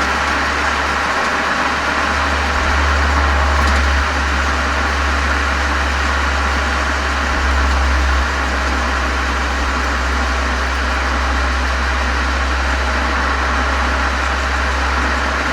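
Volkswagen Golf 7 GTI's turbocharged four-cylinder engine running through a Cox aftermarket muffler and chamber, heard from a microphone outside the car: a steady deep exhaust drone under a constant wash of noise, easing slightly in level about four and eight seconds in.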